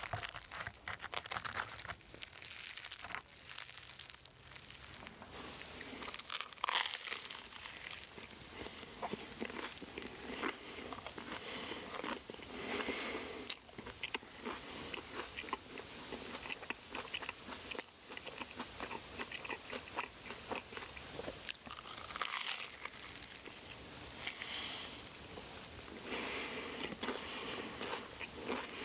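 A person biting and chewing crisp food close to the microphone, with repeated crunches coming in bouts every few seconds.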